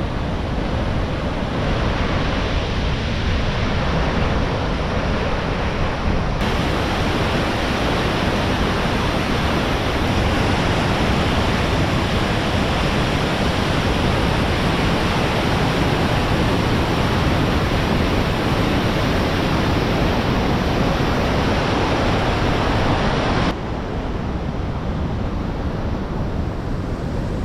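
Steady, loud rushing of a large waterfall, even noise with no tones, changing abruptly in character about six seconds in and again about twenty-three seconds in as the shots cut.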